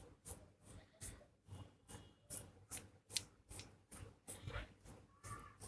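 Rubbing or scrubbing strokes on the rubber piston of a manual desoldering pump, at about two to three strokes a second, as solder particles are cleaned off it.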